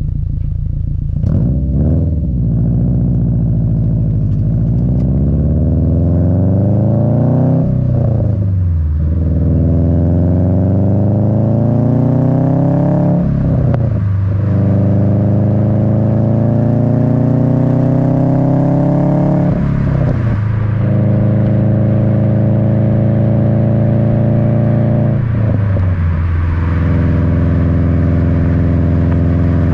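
Subaru WRX's turbocharged EJ255 flat-four heard through an Invidia N1 dual catback exhaust, with its rumble close to the tailpipes, driving under acceleration through the gears. Engine pitch climbs slowly in each gear and drops sharply at each of five upshifts, then holds steady near the end.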